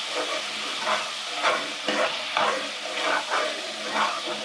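Yogurt and onion-chilli masala sizzling in hot oil in a pan, with a spoon scraping and stirring it in irregular strokes.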